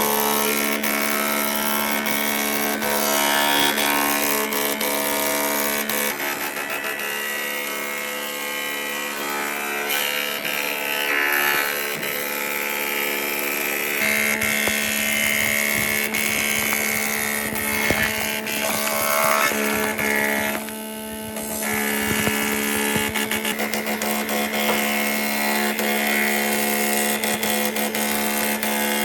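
An electric power tool's motor running steadily with a constant hum, mixed with the noise of it working on wood. It eases off briefly about 21 seconds in, then picks up again.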